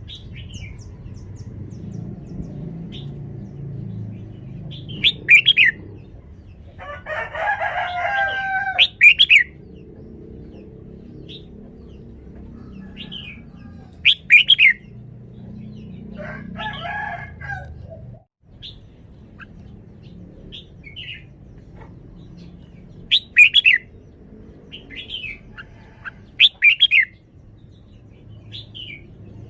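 Red-whiskered bulbul singing short, loud whistled phrases every few seconds, with fainter chirps in between. Two rougher, busier calls stand out among the phrases, over a steady low background rumble.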